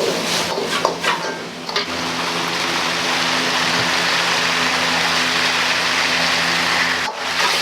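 Wok cooking on a restaurant gas range: a few metal clanks of the ladle against the wok in the first two seconds, then a steady hiss of sizzling food and burner over the constant hum of the kitchen extractor fan. The sound dips briefly near the end.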